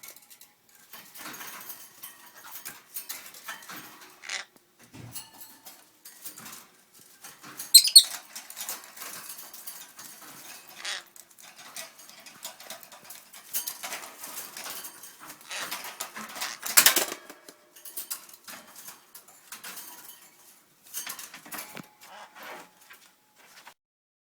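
Peach-faced lovebird giving a few loud, sharp squawks amid a running clatter of small clicks and scuffles from pecking and scrambling.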